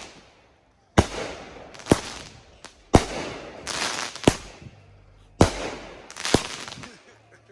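Consumer aerial fireworks going off: about six sharp bangs roughly a second apart, each trailed by a hissing crackle.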